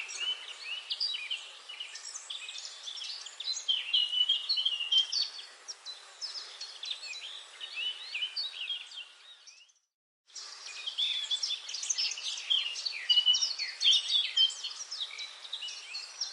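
Forest bird chorus: many songbirds chirping and trilling at once, densely overlapping. A little before ten seconds in it fades to a brief silence, then starts again abruptly, like a joint between recordings.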